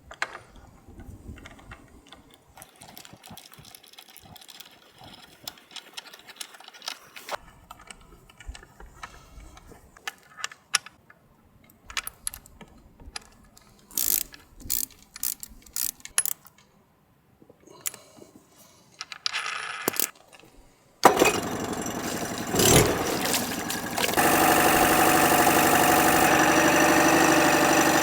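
Scattered light metallic clicks and clinks of small metal parts and tools being handled. About three-quarters of the way through, a Johnson 9.9 hp outboard motor's running sound comes in abruptly and runs steadily, stepping louder a few seconds later.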